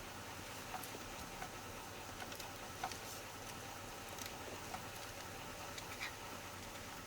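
Faint, irregular small clicks and taps of hands working on parts and tools, about a dozen scattered through, over a steady background hiss.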